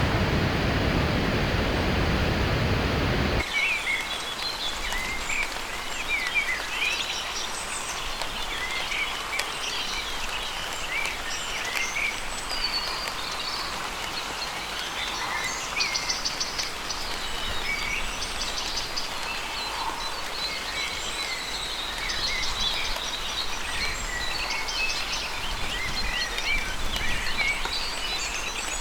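A dense rushing noise stops abruptly about three seconds in. It gives way to rainforest ambience: many birds chirping and calling over a steady hiss.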